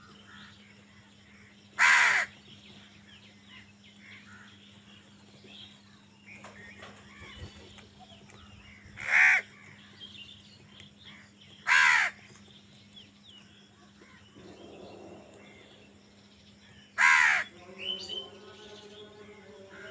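A crow cawing, four loud single caws several seconds apart, with fainter bird calls in between.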